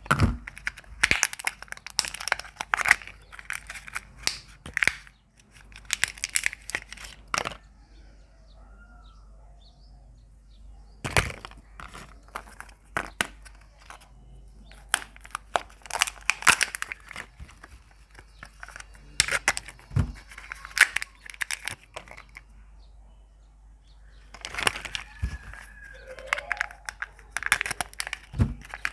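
Crinkling and tearing of surprise-egg wrappers, with sharp cracks as the eggs are broken open. The sounds come in busy bursts of crackling and snapping, with quieter pauses after about eight seconds and again past twenty seconds.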